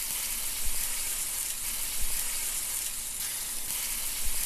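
Food frying with a steady sizzle, with a few small swells in loudness.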